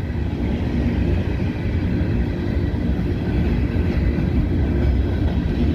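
CSX freight train rolling past close by, a steady low rumble.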